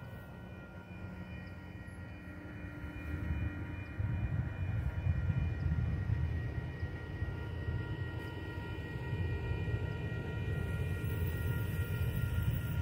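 Railroad crossing bells ringing steadily over the deep rumble of an approaching freight train, which grows louder about four seconds in.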